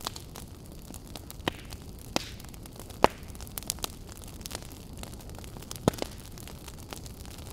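Wood fire crackling in a fireplace: irregular sharp pops and snaps, the loudest about three seconds in, over a steady low hiss.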